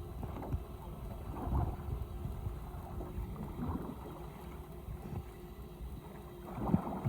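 Water sloshing and gurgling against a small fishing boat's hull, with wind on the microphone and two louder surges, about one and a half seconds in and near the end.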